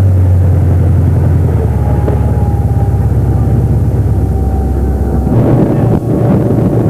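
Motorboat-type engine running steadily, its pitch dropping about a second and a half in and changing again near the end.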